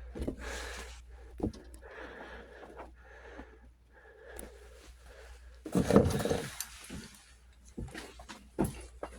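Metal tools and parts clinking and clattering in irregular knocks and rattles, with one louder, longer burst of clatter about six seconds in.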